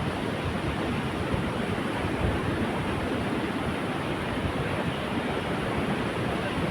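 Steady noise of strong wind, rain and sea surf, with wind buffeting the microphone.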